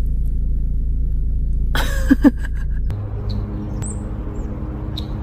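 Steady low rumble of a car running, heard from inside the cabin, with a short noise about two seconds in. After about three seconds it cuts to an outdoor garden scene: a low hum with a few short, high bird chirps.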